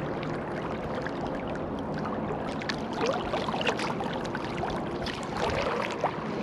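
Steady rush of river water flowing, with a few faint short chirps about halfway through.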